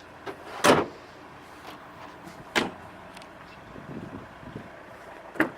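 Three short clunks from the car's fittings being handled, about two seconds apart. The first, about a second in, is the loudest.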